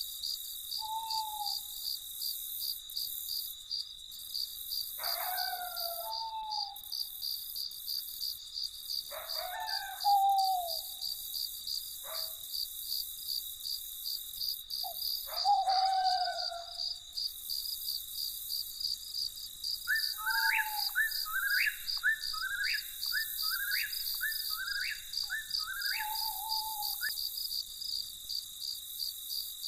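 Crickets chirping in a fast, even, unbroken pulse. A bird calls over them: a few separate calls, then a run of about seven quick repeated notes in the last third.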